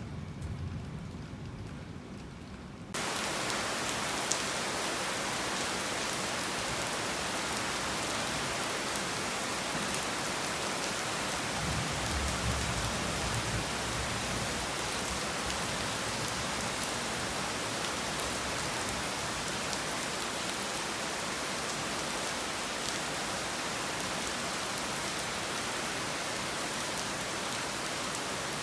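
Heavy rain falling steadily. A low rumble of thunder dies away under muffled rain at the start, then about three seconds in the rain suddenly turns louder and brighter and stays steady, with a faint low rumble of thunder around twelve seconds in.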